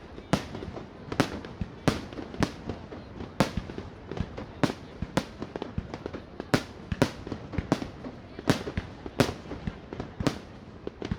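Fireworks display going off: a steady run of sharp bangs, one or two a second at uneven intervals, each with a short rolling echo.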